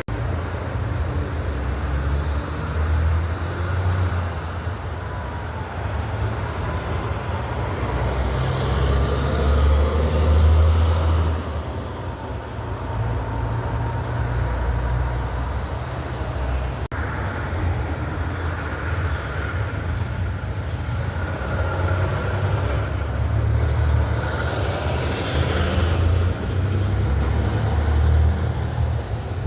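Road traffic with heavy trucks and cars passing, their low engine rumble rising and falling as each goes by, loudest about ten seconds in.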